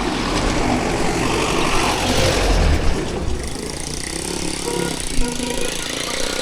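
Busy street traffic of cars and motorcycles passing, with a low engine rumble that swells about two to three seconds in.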